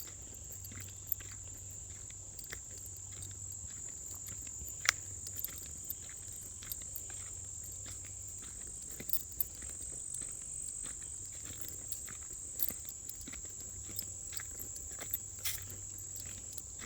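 A steady, high-pitched chorus of insects trilling, with irregular crunching footsteps on a woodland trail; one sharper snap about five seconds in.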